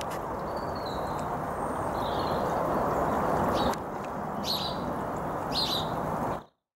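Steady outdoor background noise with a small bird chirping a few times in short calls. A click comes just past halfway, and the sound cuts off suddenly near the end.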